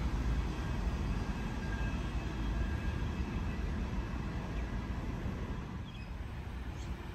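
Electric suburban passenger train running through the station with a steady rumble that eases off after about five seconds as it draws away.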